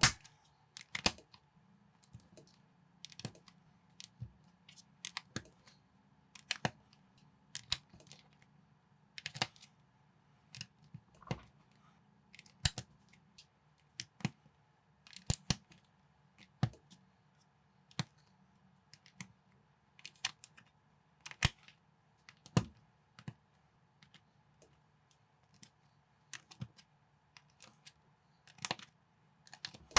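Lego-compatible plastic building bricks being handled and pressed together: irregular sharp clicks and taps, about one or two a second, over a faint steady hum.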